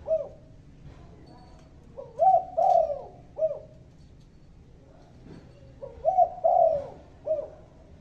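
Spotted dove (tekukur) cooing: two phrases of about four low, rolling coo notes each, the last note of each phrase set a little apart.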